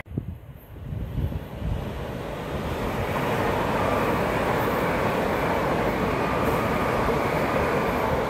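A train passing: its running noise builds over the first three seconds, then holds steady.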